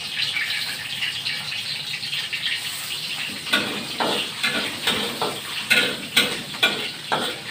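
Hot oil sizzling in woks as tempeh and dried shrimp fry. From about three and a half seconds in, a spatula scrapes and clinks against the wok as the shrimp are stirred.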